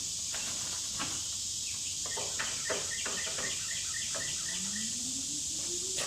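A bird chirps in a quick repeated series over a steady high hiss. Sharp wooden knocks come in among the chirps, as pegs are pushed into a wooden coop. Near the end a low tone rises slowly.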